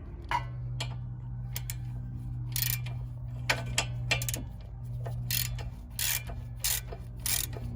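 Ratchet wrench with a 12 mm socket clicking in short, uneven strokes as it backs out the screw holding the brake line bracket.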